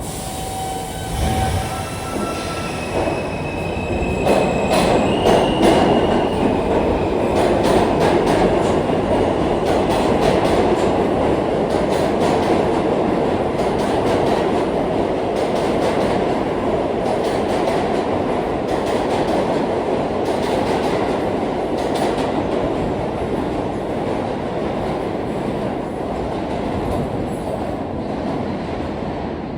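New York City subway N and R trains accelerating out of a station: a motor whine rises in steps over the first few seconds, then a heavy steady rumble with wheels clicking over rail joints, slowly fading near the end.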